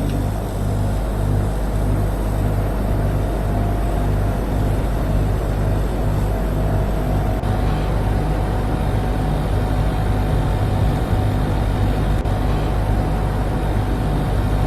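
NC Clima air conditioner running: a steady low hum with fan and airflow noise and a faint whine on top.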